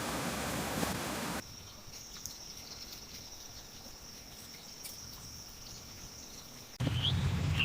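Rushing water noise for about a second and a half, then an abrupt cut to a quieter insect ambience: a steady, high cricket-like trill held for about five seconds. Near the end it cuts to a louder low rumble with a few short chirps.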